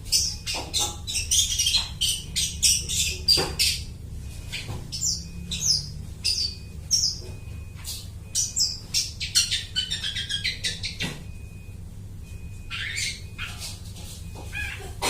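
Long-tailed shrike (cendet) singing energetically: a fast run of harsh chattering and squeaky high notes that mimic other birds' calls, broken by a short lull about three-quarters of the way through.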